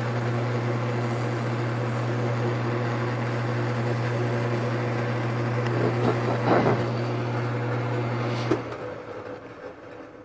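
Wood lathe motor running while 400-grit sandpaper hisses against the spinning workpiece in a final fine-grit sanding pass, with a louder scratchy stretch around six seconds in. About eight and a half seconds in the motor's hum stops and the sound fades as the lathe winds down.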